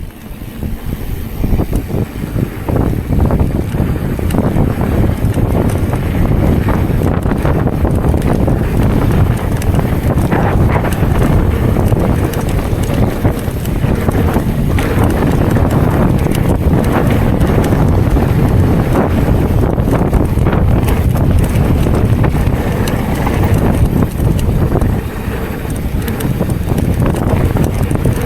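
Mountain bike riding fast down a rough trail: wind buffeting the microphone over a dense, constant rattle and clatter from the bike, picking up over the first couple of seconds.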